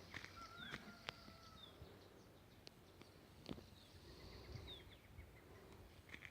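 Near silence: faint rural outdoor ambience with a few short, falling bird chirps and a thin whistled note near the start, plus a few isolated clicks.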